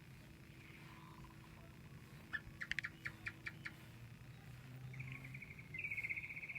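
Bird calls: a quick series of about seven sharp, high chirps, then a fast high trill that gets louder near the end.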